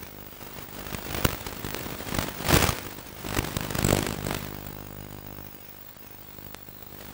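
Radio-controlled model airplane's motor and propeller running steadily, heard through a camera mounted on the plane. Several short, loud gusts of wind noise buffet the microphone, the first about a second in and the loudest around the middle.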